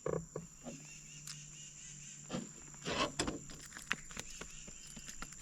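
Scattered light clicks and knocks, most likely from handling a just-caught small fish and tackle in a boat, over a steady high-pitched drone from crickets.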